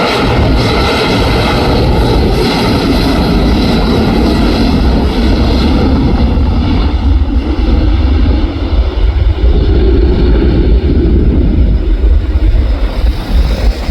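Jet engines of a Boeing 737-800 (CFM56-7B turbofans) running, their high whine fading over the first half. Strong gusty wind buffets the microphone throughout, its gusts growing choppier after about eight seconds.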